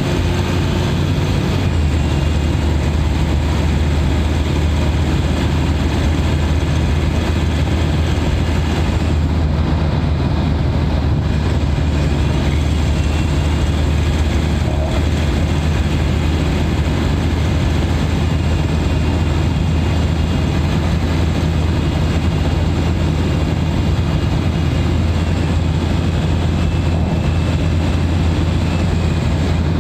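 A Mitsubishi Pajero Sport's turbo-diesel engine, heard from inside the engine bay, running at a steady highway cruise. A constant low drone carries a faint turbo whistle that comes and goes.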